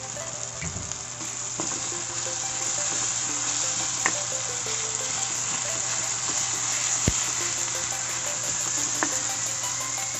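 Chopped tomato, onion and garlic sizzling steadily in hot oil in a pan, with a few sharp clicks as a plastic spatula stirs and taps the pan.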